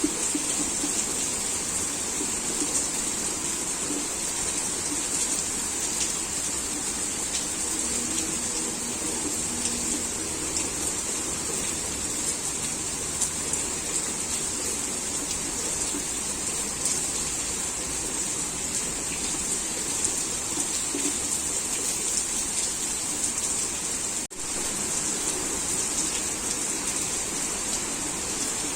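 Heavy rain falling steadily, with scattered taps of drops on nearby surfaces. The sound cuts out for a split second about three-quarters of the way through.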